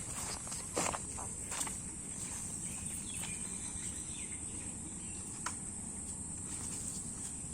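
Insects trilling steadily at a high pitch, with a few sharp clicks in the first two seconds and one more past the middle.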